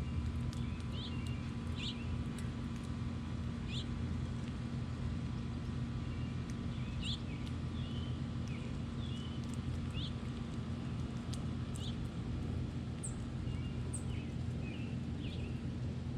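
Small songbirds giving short, sharp chip notes and chirps every second or so, over a steady low rumble and hum that is the loudest thing throughout.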